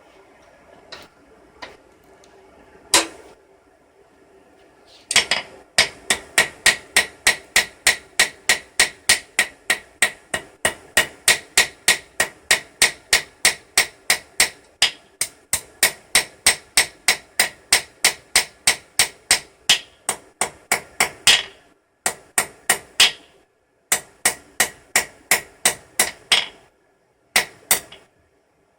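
Blacksmith's hammer striking steel on an anvil to shape a forged hook: a few single taps, then a long steady run of ringing blows about three a second, breaking into short groups of blows near the end.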